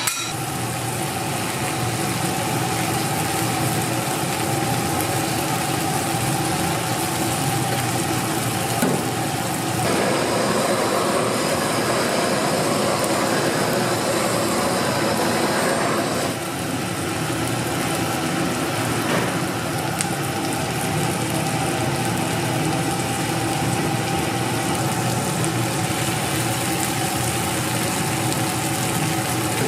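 A motor running steadily with a faint hum, growing louder for several seconds about a third of the way in.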